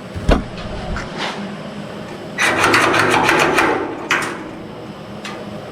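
Workshop handling noise on metal body parts: a sharp knock, then about a second and a half of rapid scraping clicks, and a couple of lighter knocks.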